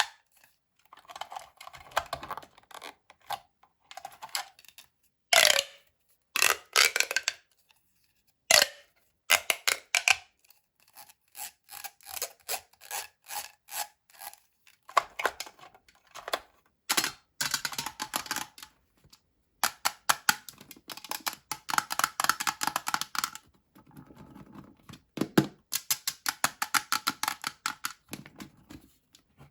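Close-up unwrapping of plastic candy-toy packaging: crinkling and tearing in short bursts, mixed with many sharp clicks, and dense runs of rapid clicking in the second half.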